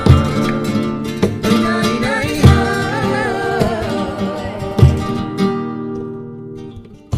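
Flamenco Christmas carol (villancico) on Spanish guitar, with strong strummed accents about every two and a half seconds and a singing voice holding wordless wavering notes in the first few seconds. The music fades out near the end, then the guitar comes back in.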